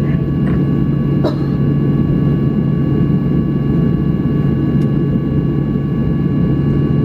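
Cabin noise of a Boeing 737-800 taxiing to the gate after landing. There is a steady low rumble and hum with faint high whining tones, and two faint clicks, about a second in and near five seconds.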